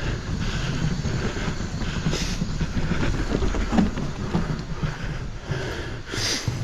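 Mountain bike rolling over a wet, slick dirt trail, heard from the rider's camera: a steady rough rumble of tyres on the ground with the bike rattling, and two short hisses, about two seconds in and near the end.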